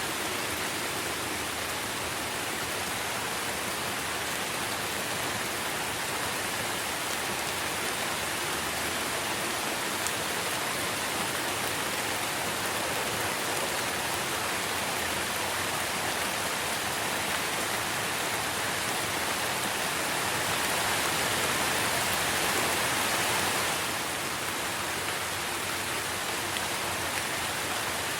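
Steady rain falling on tree leaves, an even hiss that swells a little louder for a few seconds about three quarters of the way through.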